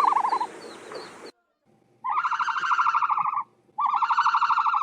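A bird's rapid rattling calls, each a fast run of pulses: one call ends about half a second in, then two more follow, each lasting about a second and a half, with a short gap between them. Faint high chirps sound early on.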